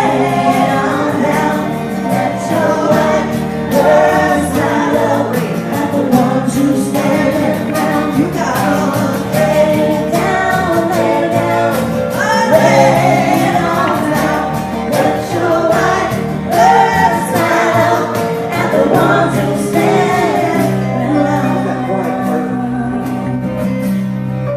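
Live song performance: several singers carrying a sustained choral vocal passage over steady instrumental accompaniment.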